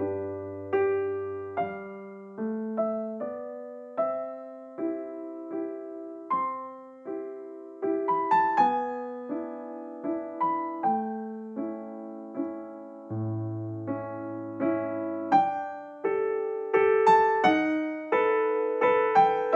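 Background piano music, gentle and melodic, with notes struck and left to fade.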